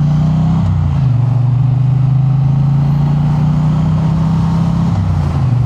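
Triumph Bonneville T100's parallel-twin engine running steadily on the move, its note shifting slightly about a second in and again near the end.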